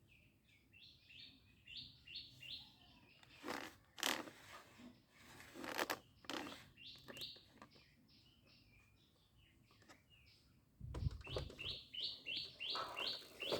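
Bird chirping in short runs of quick, high notes, about four a second, heard three times, with a few sharp clicks and knocks in between.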